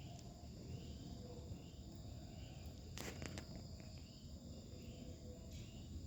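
Insects chirping steadily in high, even tones, with a fainter chirp repeating about twice a second. About halfway through there is a short, sharp rustle or click.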